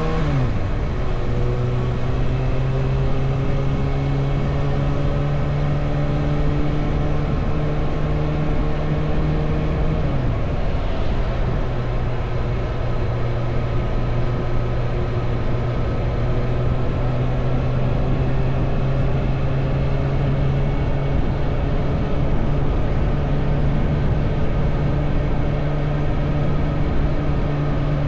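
Motorcycle engine running steadily while riding, over a constant low rush of wind and road noise. The engine note drops right at the start and again about ten seconds in.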